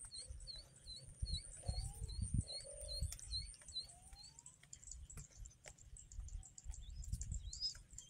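A small bird chirping: a run of about a dozen short, evenly spaced high chirps, roughly three a second, then a few scattered chirps near the end. A faint steady high whine and low rumbles sit underneath.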